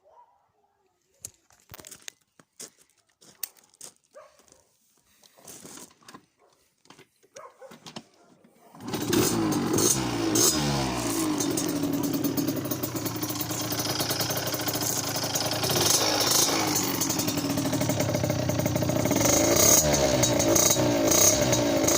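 Derbi Senda X-Race two-stroke motorcycle engine through a Giannelli aftermarket exhaust: a few faint clicks and knocks, then about nine seconds in the engine starts and runs, revved up and down repeatedly.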